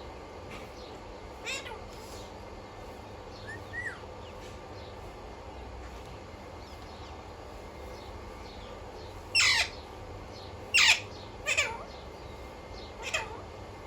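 Alexandrine parrot giving short calls: a faint one about a second and a half in, a short whistle about four seconds in, then four loud calls in quick succession from about nine seconds in.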